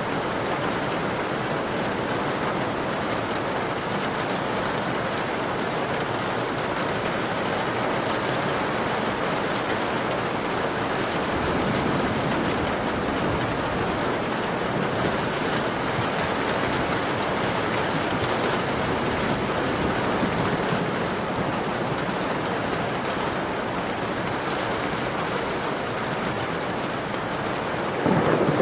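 Steady rain hitting a window pane, an even hiss. Near the end a low rumble of thunder sets in and the sound gets louder.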